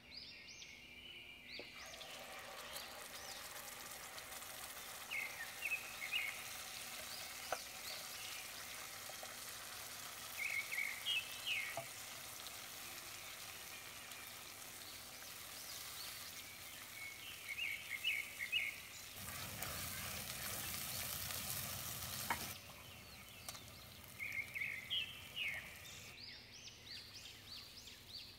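Cashew, almond, green chilli and onion paste sizzling in hot oil in a pot as it is stirred with a spatula; the frying hiss starts about two seconds in and swells louder for a few seconds about two-thirds of the way through. Short bird chirps sound now and then in the background.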